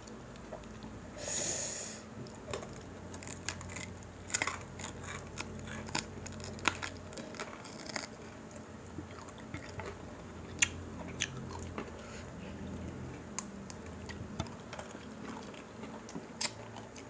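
Close-miked chewing and biting of crispy pata, deep-fried pork knuckle, eaten by hand: wet mouth sounds with crunches from the crisp skin and many scattered sharp clicks and smacks. One louder, noisier burst comes about a second in.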